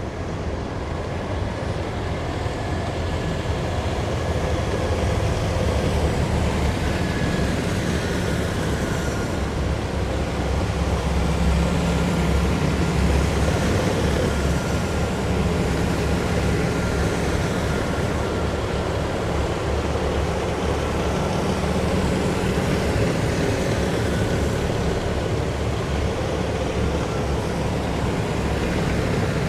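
A column of heavy military vehicles driving past: a continuous loud engine rumble with a faint high whine over it, growing a little louder a few seconds in.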